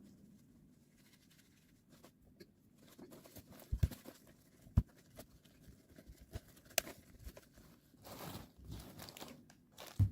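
Crinkling and rustling of material being handled close by, broken by a few short knocks, with the loudest rustle about eight seconds in.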